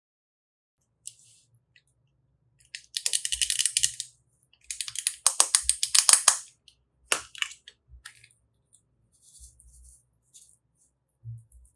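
Slime being worked by hand, giving bursts of rapid crackling and popping clicks, strongest in two spells in the first half and fainter after.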